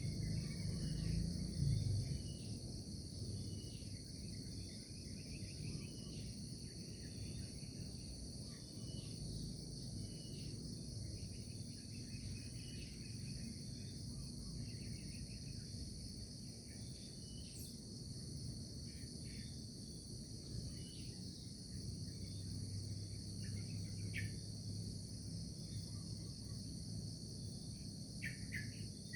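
Steady chorus of insects trilling high and continuously, with scattered short bird chirps and a low background rumble.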